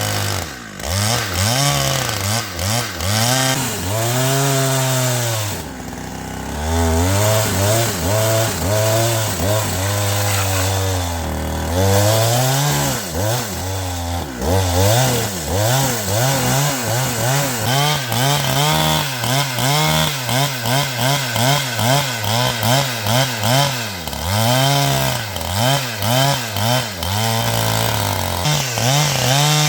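Chainsaw cutting wood, its engine pitch sagging under load and rising again over and over, with a short drop to a lower note around six seconds in and rapid repeated dips in the second half.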